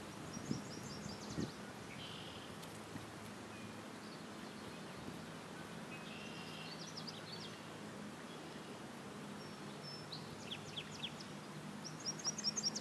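Small birds chirping in short, quick high series several times, over a steady outdoor background, with a couple of soft knocks in the first two seconds.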